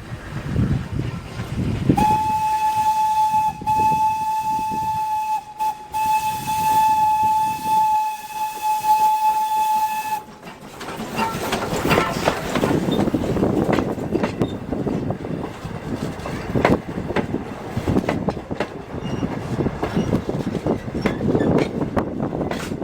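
Locomotive air horn sounding a long, steady blast with two brief breaks, then stopping, followed by the rumble and clatter of a freight train's wheels rolling past on the rails.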